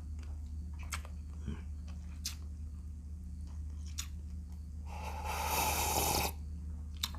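Close-up eating sounds: a person chewing and biting shrimp, with soft scattered clicks over a steady low hum. About five seconds in comes a louder rushing noise lasting more than a second.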